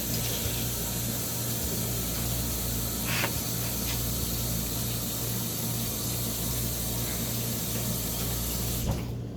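A steady hiss with a low hum underneath and a faint click about three seconds in; the hiss cuts off abruptly near the end.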